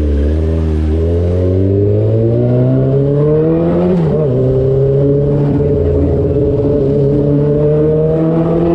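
2003 Yamaha YZF-R6's inline-four engine with an SC-Project exhaust, pulling up through the revs under acceleration. About four seconds in the revs drop sharply on an upshift, then the engine pulls steadily and climbs slowly again.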